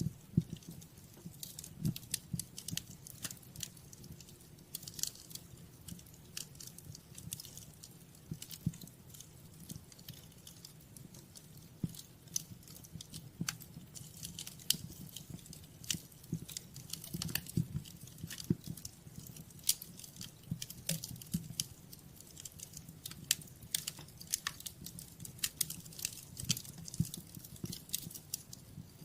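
Fireplace fire crackling, with many irregular sharp pops and snaps over a low steady rumble.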